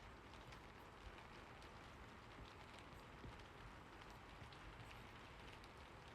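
Faint, steady rain: an even hiss with many small drops ticking irregularly.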